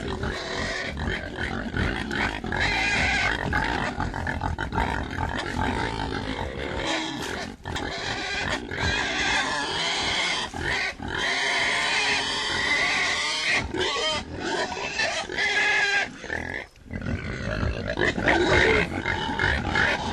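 Several pigs grunting and snuffling continuously, with higher squeals mixed in.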